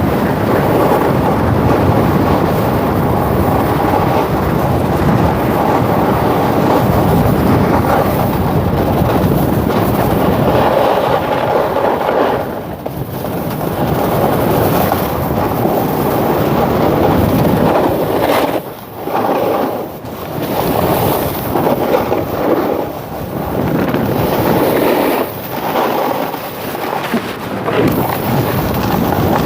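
Wind buffeting a phone's microphone and a snowboard scraping over the snow during a run, a loud steady rush. It dips briefly several times in the second half, as the board slows or turns.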